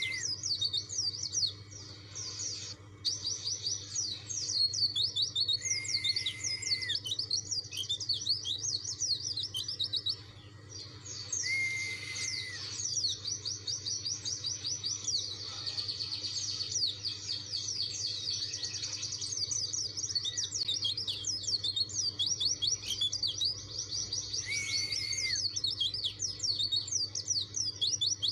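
Pleci dakun white-eye (Zosterops) singing a rapid, high, twittering song almost without pause, with a short level whistle breaking in four times. It is a persistent challenge song, the bird calling out for a rival.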